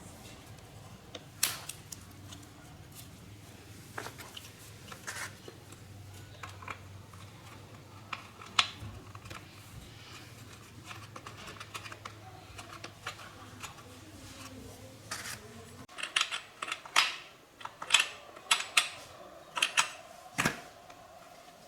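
Scattered sharp clicks and taps of hand tools and small metal parts being handled, over a low hum that cuts off about 16 seconds in; after that the clicks come thicker and louder.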